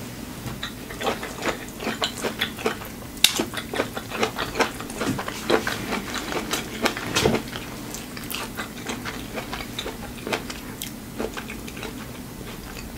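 Close-miked mouth sounds of biting and chewing corn on the cob: a run of crisp clicks and wet smacks, busiest in the first half and sparser later.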